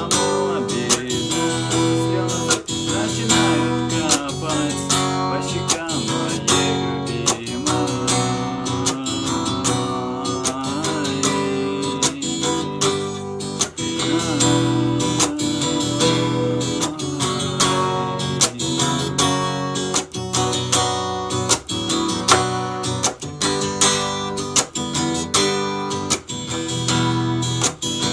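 Acoustic guitar strummed in a steady rhythm: an instrumental passage of the song with no singing.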